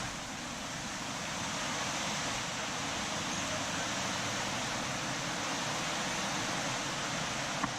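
Steady rush of a waterfall, an even noise with no changes, with one brief click near the end.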